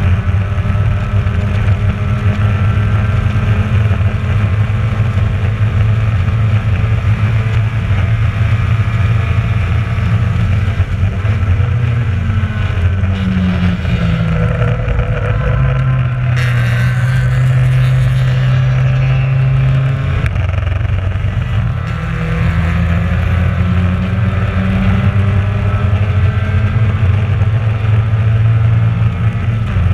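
Mazda MX-5 race car's four-cylinder engine on track, heard onboard. A little past halfway the pitch falls as the car brakes and shifts down, holds lower for a few seconds, then climbs again as it accelerates.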